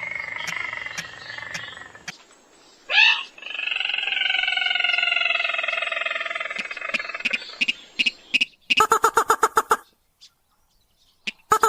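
Crake or rail lure-call recording: long drawn-out nasal calls that slide slowly downward, a short sharp rising note between them, then scattered ticks building into fast rattling trills, with another rattle starting near the end.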